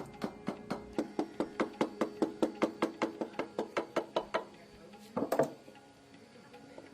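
Rapid, regular knocking, about five strikes a second, stopping after about four seconds, followed by a short cluster of louder knocks.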